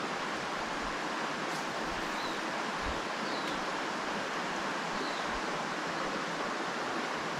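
Steady rush of flowing river water, with a few faint high chirps over it.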